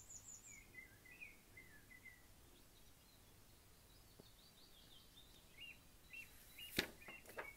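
Near silence with faint bird chirps, a few short high calls. Near the end come a couple of sharp rustles of picture-book pages being handled.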